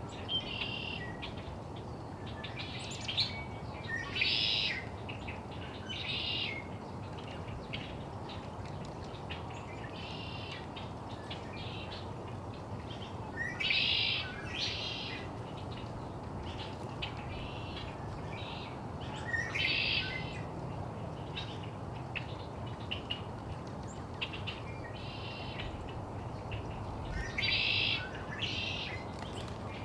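Birds calling: short high calls about half a second to a second long, repeated every few seconds at uneven intervals, over a steady low background noise.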